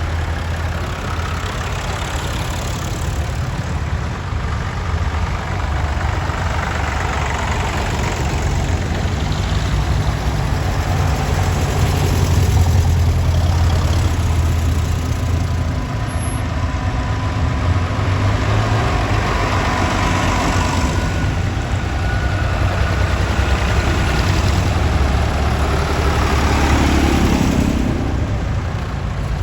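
Vintage tractor engines running with a steady low drone, their pitch shifting a little now and then.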